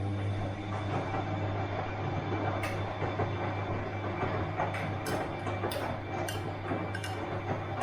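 Bosch washing machine running, with a steady low motor hum under a churning noise. The noise swells over the first half second, then holds steady. Several sharp clicks or knocks come in the second half.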